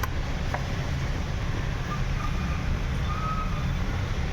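Steady low rumble of workshop background noise, with a sharp click at the start and another about half a second in, and a few faint short high-pitched tones near the middle.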